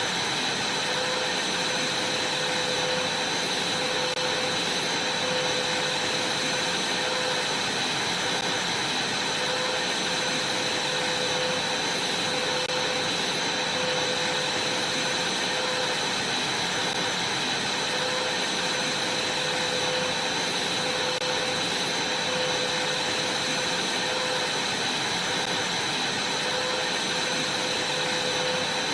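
Vacuum cleaner running steadily with an even rushing noise and a thin high whine, vacuuming a trampoline mat.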